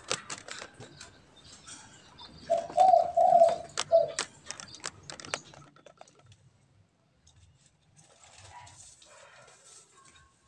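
Spotted dove (derkuku) cooing: a short phrase of low, hollow notes about two and a half seconds in. Sharp clicks and rattles come before and around it.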